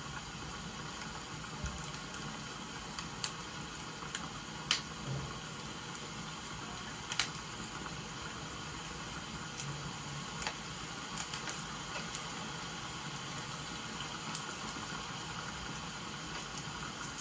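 Steady hiss of rain with a crackling wood fire: scattered sharp pops and snaps, a few standing out clearly about five and seven seconds in.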